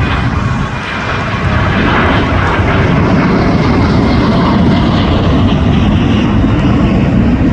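Jet airliner's engines, loud, growing louder over the first couple of seconds and then holding steady as the plane passes close by.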